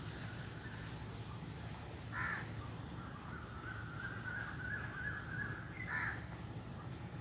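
Crow cawing twice, about two seconds in and again near six seconds, with a thinner wavering sound running between the two caws.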